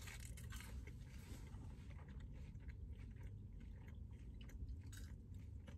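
Faint close chewing of thin shoestring French fries, with small mouth clicks and light crunches, over a low steady hum.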